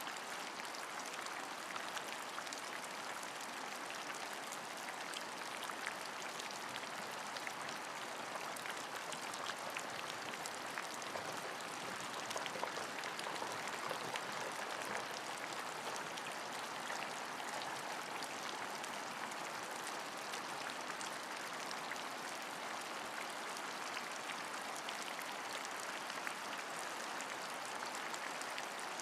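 Steady rain falling, a constant hiss of many small drop ticks with no rhythm or let-up.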